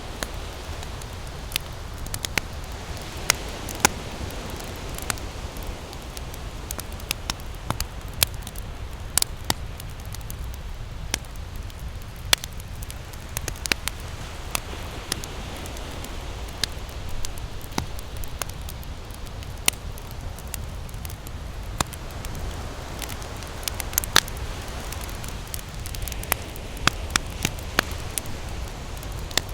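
Campfire crackling with frequent sharp pops, over a steady low rumble and a hiss from ocean waves that swells and fades a few times.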